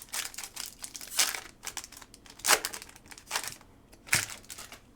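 Trading card pack wrapper crinkling and tearing in several short rustling bursts, the loudest about halfway through and again near the end, as a pack is opened and the cards are handled.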